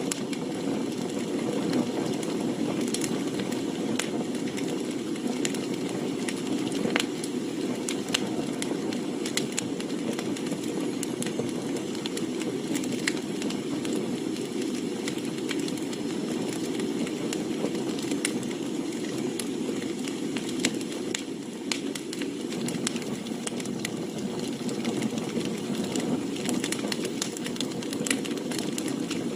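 Wood campfire burning, a steady low rush of flame with frequent sharp pops and crackles of splitting firewood scattered throughout.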